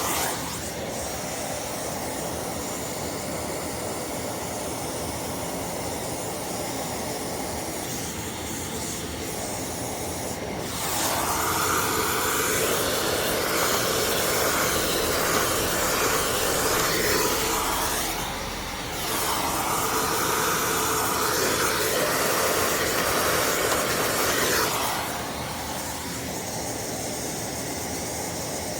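Steady rushing air from a running motor-driven machine blowing dust out of clogged vacuum filters. It gets louder about 11 seconds in, dips briefly, then drops back to the lower level about 25 seconds in.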